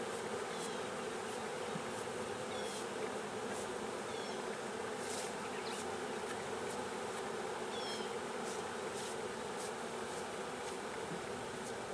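Many honeybees from a swarm buzzing steadily around an open hive, with scattered short high clicks and chirps over the hum.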